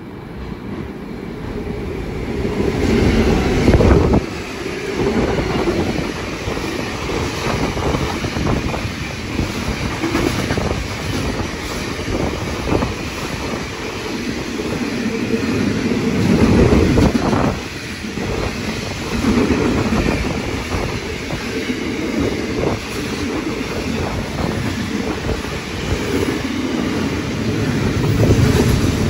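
Diesel-hauled freight train of hopper wagons passing close by. The locomotive's engine builds to a peak about four seconds in, followed by the steady rumble and clickety-clack of the wagon wheels over the rails.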